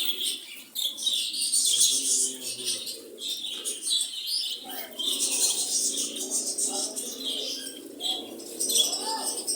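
A flock of caged cockatiels and lovebirds chirping and screeching continuously. Lower calls join in underneath for two stretches.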